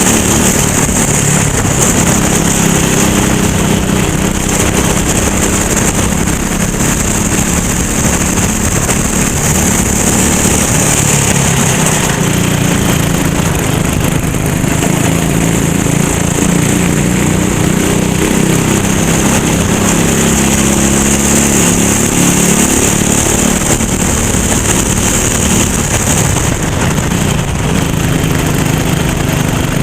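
Racing kart's engine running hard through the laps, its pitch repeatedly climbing and dropping as it accelerates and slows, over a steady high hiss.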